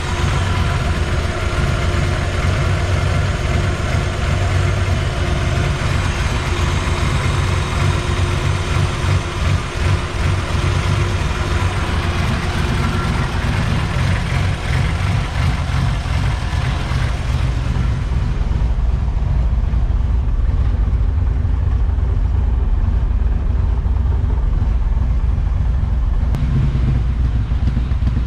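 High-compression Honda B20VTEC four-cylinder idling steadily at operating temperature on its first runs, an idle that still needs fine tuning. A hiss over the engine fades out about two-thirds of the way through.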